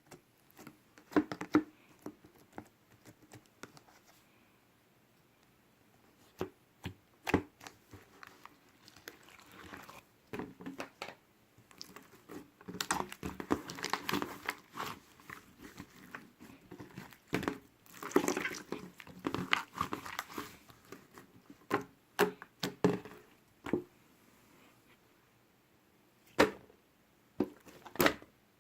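Scattered clicks and taps, with several stretches of crinkling and rustling in the middle, as of objects being handled close by.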